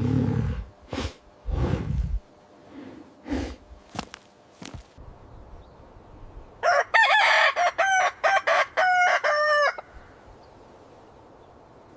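Rooster crowing and clucking in a quick run of short, loud, pitch-bending calls about seven seconds in. Low rumbling sounds come at the start.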